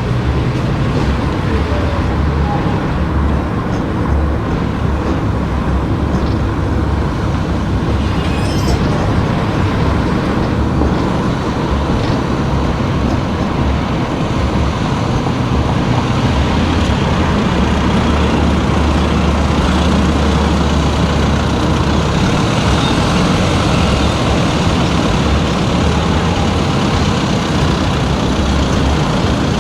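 A car driving along a road: steady engine and tyre noise with a strong low rumble.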